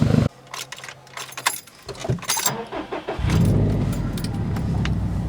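2011 Subaru WRX STI's turbocharged flat-four running through a titanium Tomei Expreme Ti race exhaust cuts off suddenly just after the start. Then comes a stretch of light clicks and rattles like keys, and about three seconds in the engine sound comes back and settles into a steady, deep idle.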